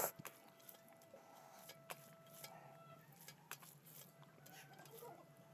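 Soft close-up eating sounds: small wet clicks and smacks of chewing food, with a sharper click at the start. A faint steady tone hums in the background for the first three seconds or so.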